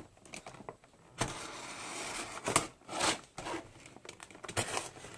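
Toy packaging being opened by hand: sharp plastic and cardboard clicks and crackles, with a longer scraping rustle about a second in.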